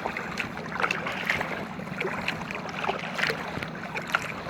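Water splashing and lapping around an inflatable kayak being paddled, with small irregular splashes and drips over a steady low hum.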